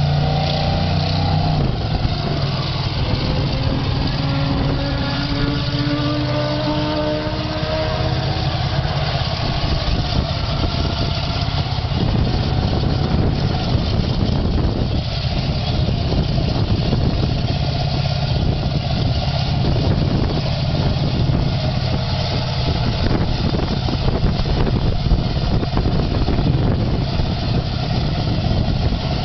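Monster truck's big engine running loudly, its pitch sliding up and down with the throttle in the first several seconds, then running on steadily.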